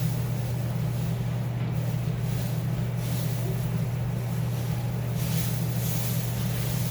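Bobcat 763 skid-steer loader's diesel engine running at a steady speed, a constant low drone.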